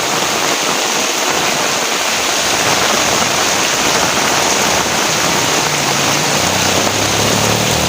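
Heavy rain falling in a dense, steady hiss. From about six seconds in, the low hum of an approaching motor vehicle's engine rises beneath it.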